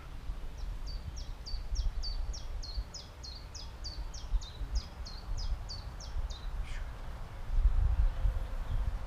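A songbird singing one long, evenly paced run of short high notes, each dropping in pitch, about three a second, which stops about six and a half seconds in. Under it is a low rumble that grows louder near the end.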